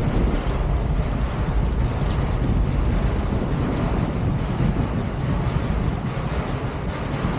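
Wind buffeting the microphone over a steady low rumble, as from a moving vehicle.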